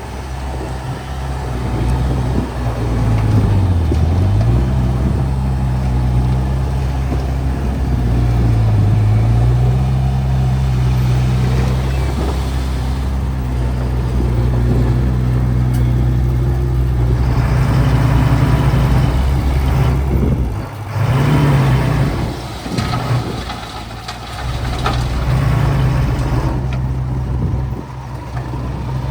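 Diesel engine of heavy earthmoving equipment (bulldozer or dump truck) running steadily under work. Its pitch dips briefly twice in the first ten seconds. In the second half a broader clattering noise comes and goes, and about twenty seconds in the engine note drops sharply and then picks up again.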